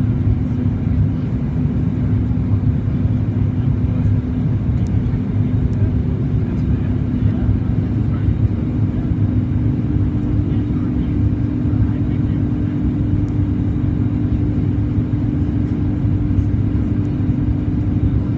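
Steady cabin noise inside a Boeing 737 MAX 8-200 in flight: a low rumble of the engines and airflow, with a humming tone that steps slightly higher about eight seconds in.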